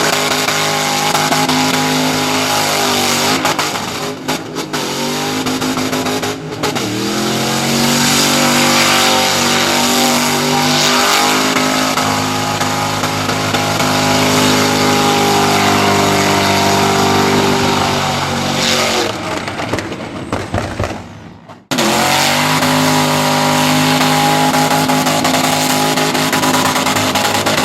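Car engine running hard at high revs, with brief dips around four and six seconds. About twenty seconds in, the revs fall away and the sound cuts off abruptly, then comes straight back at high revs.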